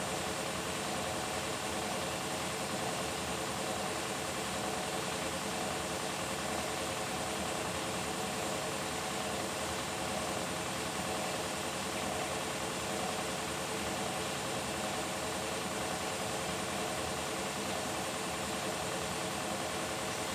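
Beko WTK104121W washing machine running on its delicates cycle: a steady motor hum with a hiss and several held tones, even in level throughout.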